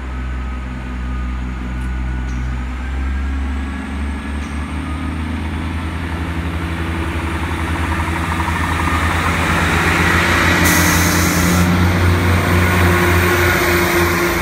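Diesel train engines running, growing steadily louder as a Great Western Railway train moves past on the near line, with rising wheel-on-rail noise and a short hiss near the end.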